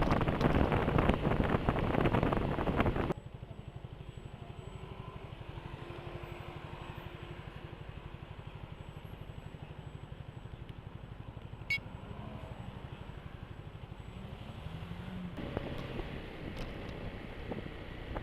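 Wind noise loud on the bike camera's microphone for about three seconds, then it cuts to slow riding in traffic with the low, steady pulsing hum of the scooter's engine. There is a single sharp click near the middle, and the engine and road noise grow louder near the end as the bike picks up speed.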